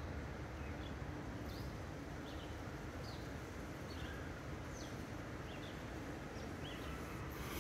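Small birds chirping faintly now and then over a steady low background hum.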